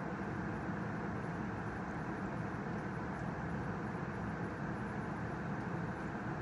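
Steady, even rumble of an NJ Transit train, with no distinct clicks, horn or bell.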